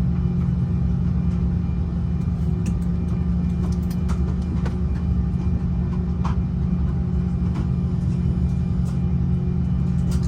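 Steady low drone inside the cabin of an Airbus A330-300 airliner on the ground before takeoff, with a few steady humming tones and occasional faint clicks and rattles.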